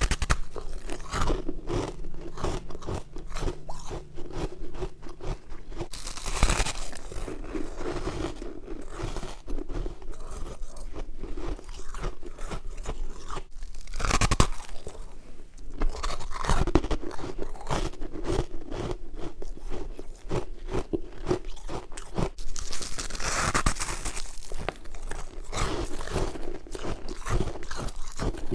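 A person chewing mouthfuls of white frost, a dense run of crisp crunches, with a few louder bursts now and then.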